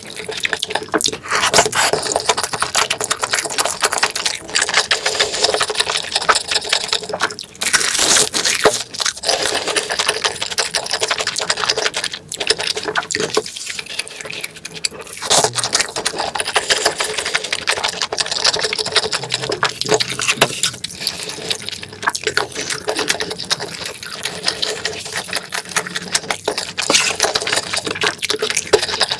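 Close-miked eating sounds: wet chewing and mouth smacking, with a dense run of moist clicks that goes on without pause.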